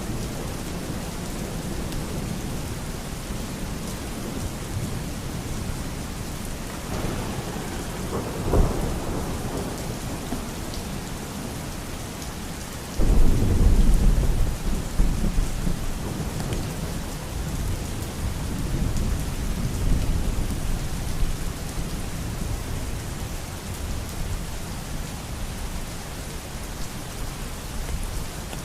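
Steady heavy rain with thunder: a sharp crack a little under a third of the way in, then a loud clap about halfway through that rumbles on for several seconds.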